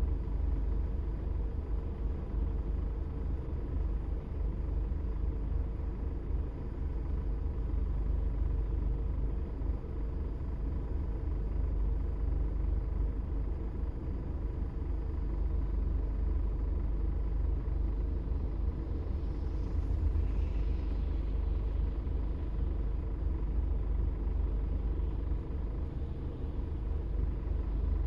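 A car driving along a road: a steady low rumble of engine and tyres. A faint hiss swells and fades about twenty seconds in.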